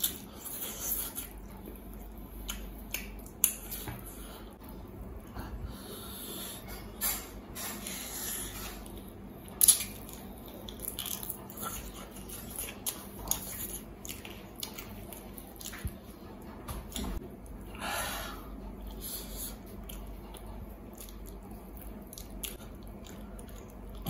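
Close-miked eating: a man biting and chewing mutton leg meat off the bone by hand, with wet mouth clicks and smacks coming irregularly. One longer noisy sound about three-quarters of the way through.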